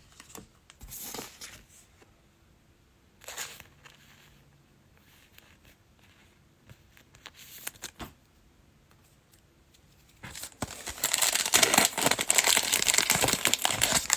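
A few brief rustles of handled card packaging, then near the end about four seconds of continuous crinkling and tearing as a trading card pack wrapper is ripped open.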